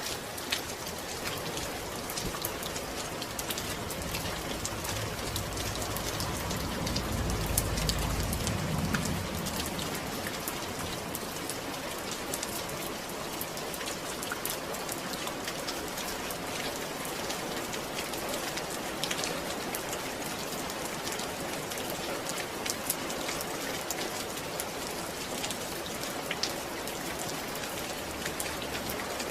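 Steady rain falling, a dense patter of drops hitting a surface. A low rumble swells and fades about seven seconds in.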